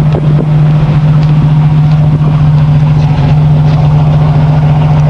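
Exhaust of a 3.1-litre V6 idling steadily through a dual-tip V6 Camaro muffler, heard at the tailpipes as a loud, even low hum.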